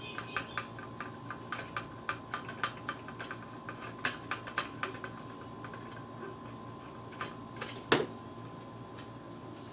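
Wipe being rubbed and scraped over the PS3's chips to clear off old thermal paste: a quick run of small scratchy ticks, about four a second, for the first half, then one sharp click near the end.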